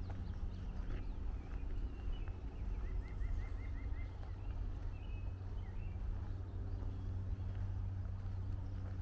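Footsteps walking steadily on a trail, with wild birds calling; about three seconds in, one bird gives a quick run of about seven short notes, and other chirps follow a couple of seconds later.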